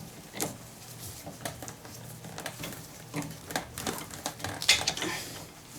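Scattered metallic clicks and clinks of a large hex key working in the top plug of a scooter front fork, with a sharper knock about three quarters of the way through.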